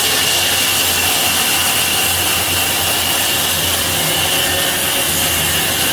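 Sawmill saw cutting through wood: a steady, loud run of cutting noise with a constant high whine, unbroken throughout.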